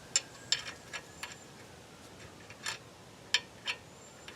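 Small metal parts clicking and clinking as they are handled and tried one after another, with about seven sharp, separate clicks at uneven intervals.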